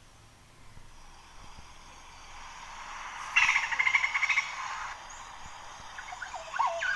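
Bird calls: a loud, rapid chattering trill a little over three seconds in, lasting about a second, then a few short sweeping notes near the end, over a faint steady hiss.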